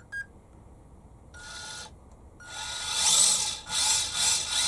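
Tamiya Mini RC car's electric motor and gearbox whirring as the throttle is applied: a short burst, then a longer, louder run whose whine rises and falls, over a steady high electronic tone. A short beep right at the start.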